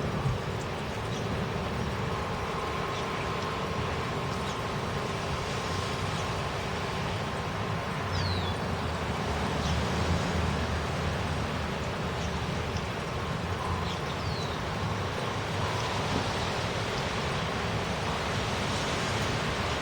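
Steady rushing noise of a thunderstorm's wind and rain, even throughout with no thunderclaps, and two brief high falling chirps about eight and fourteen seconds in.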